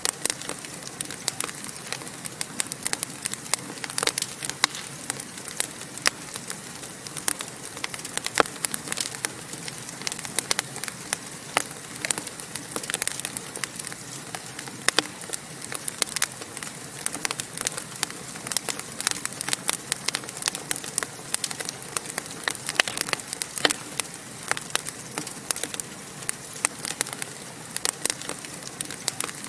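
Wood fire in a fireplace crackling, with frequent sharp irregular pops over a steady hiss of flame.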